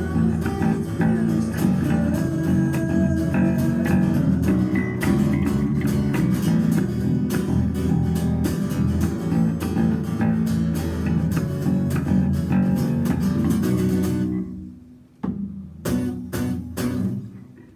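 Band playing with guitars and bass guitar over a steady beat, stopping about fourteen and a half seconds in. A few short, sharp strikes follow near the end.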